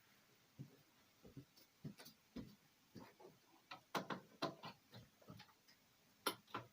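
Faint, irregular small clicks and taps, about fifteen in all, the loudest around four seconds in and again near the end: small objects being handled.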